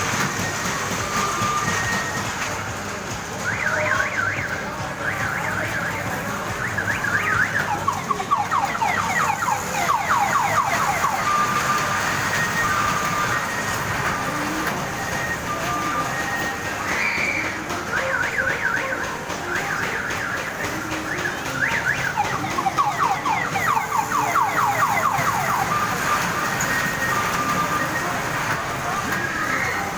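Electronic alarm-like sound: short repeated beeps alternating with long stretches of fast warbling tones that sweep up and down.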